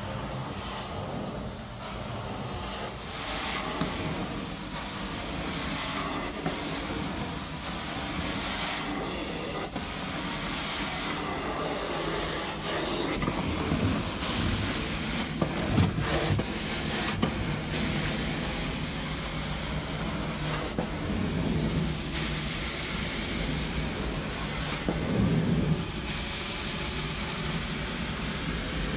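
Carpet-cleaning extraction machine running, a steady hiss and drone of suction and spray as the carpet is wet-cleaned.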